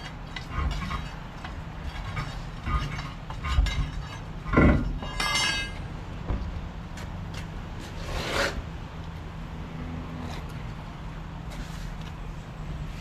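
Metal clinks and knocks of work on a truck tire and steel wheel between bead-seating attempts, with a heavy thump about four and a half seconds in and a short rush of noise near eight seconds, over a steady low hum.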